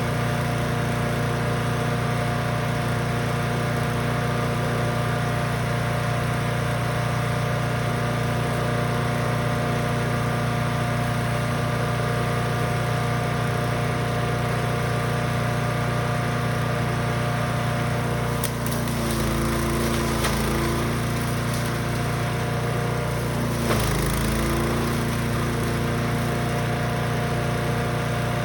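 Brush Master 3-in-1 wood chipper/shredder's gas engine running steadily at speed. From about two-thirds in, its note dips twice as it pulls down under load, with a few knocks as material is fed through.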